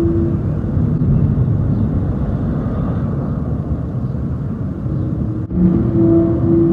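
Wind rumbling on the microphone under strange trumpet-like sounds from the sky: a steady, held two-note drone, a higher note over a lower one. One fades just after the start and another begins about five and a half seconds in.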